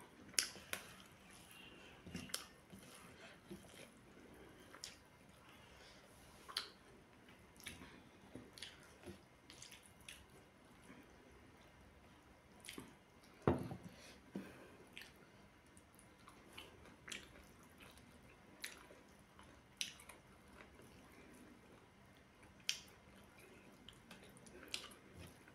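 Close-miked eating sounds: wet chewing, lip smacks and mouth clicks from rice and curry eaten by hand. About thirteen and a half seconds in there is one louder knock.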